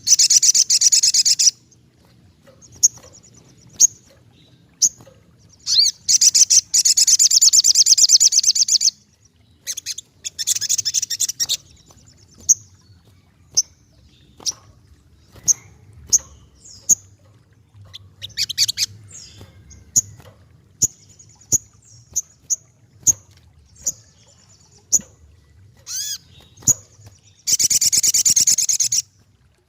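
Asian paradise flycatcher (sogokontong) calling: harsh, rapid, high chattering bursts lasting a second to a few seconds, four times, with single sharp chips about once a second between them.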